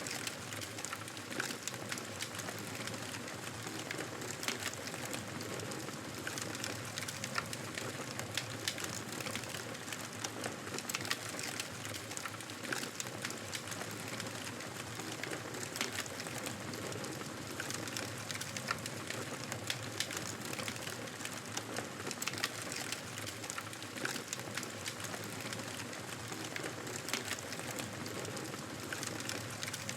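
Campfire burning with frequent sharp crackles and pops scattered irregularly over a steady hiss.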